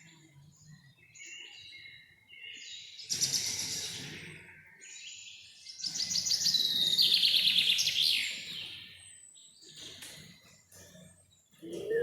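Songbirds singing in a forest, with quieter calls scattered throughout. Two loud, fast trilled song phrases stand out, one about three seconds in and a longer one about six seconds in.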